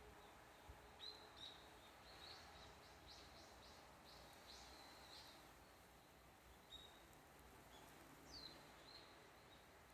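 Faint birdsong: small birds chirping in short high notes, with a quick run of calls in the middle and scattered single chirps later, over a faint steady background hiss.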